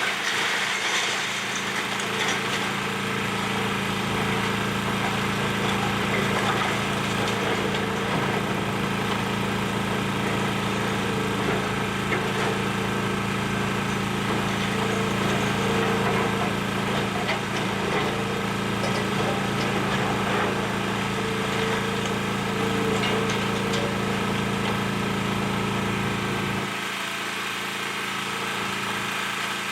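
Excavator's diesel engine running steadily, with scattered faint knocks and cracks of demolition debris. Its deep low rumble cuts off near the end, leaving the higher engine note.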